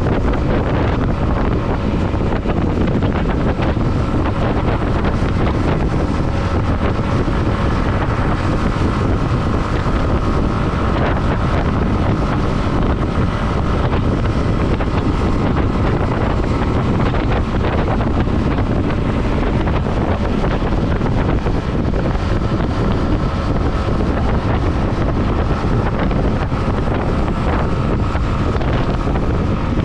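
Steady wind rush buffeting the microphone of a camera on a moving motorcycle, with the motorcycle's engine running at a steady pitch underneath.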